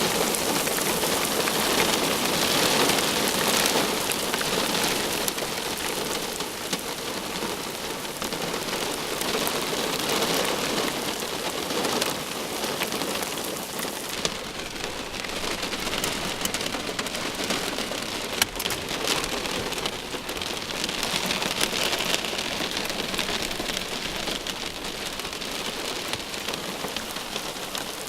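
Heavy rain falling on a hard surface, dense and steady with many sharp individual drop hits. It eases off gradually.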